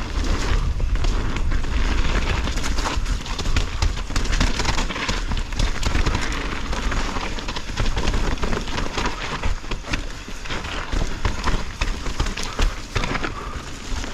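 Mountain bike descending a rough trail, heard from a helmet-mounted action camera: the bike rattles and clatters over roots and rocks with tyre noise on the dirt, under a heavy wind rumble on the microphone.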